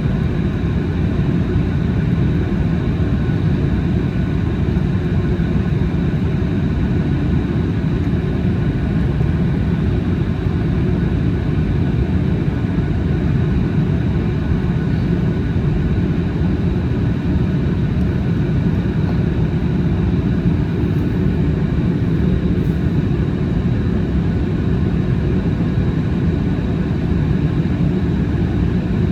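Steady cabin noise of a Boeing 737 MAX 8 in flight: the CFM LEAP-1B turbofans and rushing airflow make an even, unchanging rumble, with a thin steady high whine above it.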